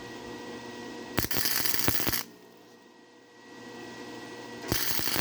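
Flux-core wire-feed welder arc crackling in two short bursts of about a second each, laying weld on circular saw blade steel.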